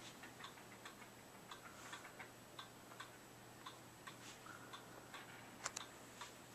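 Small pet bird in its new cage making faint short ticks and peeps at irregular intervals, with two louder clicks close together near the end. A steady low hum runs underneath.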